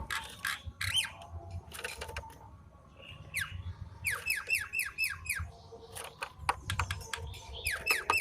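Javan myna calling: harsh squawks, then about four seconds in a quick run of six or so downward-sliding whistled notes, with another such run near the end.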